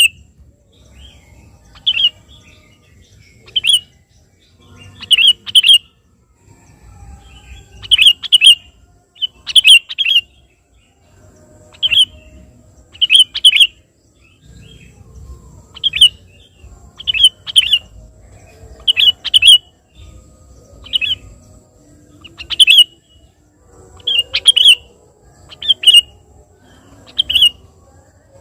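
Sooty-headed bulbul (kutilang) calling busily: short, sharp, loud notes, single or in quick pairs and triplets, repeated every second or two.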